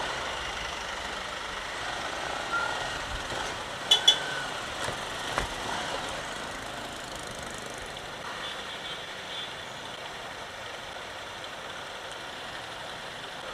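Steady traffic and riding noise from a motorcycle in city traffic. About four seconds in there are two short sharp clicks with a brief tone, and a single knock follows a little later.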